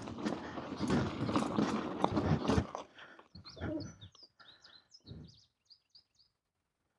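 A rough, noisy stretch for the first few seconds, then a small bird chirping a quick series of short, high notes that stops about six seconds in.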